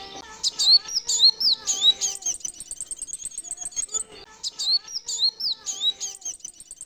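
Male kolibri wulung sunbird singing: a fast, high, ticking twitter runs throughout, broken twice by bouts of loud, sharp down-slurred whistles, one at the start and one about five seconds in.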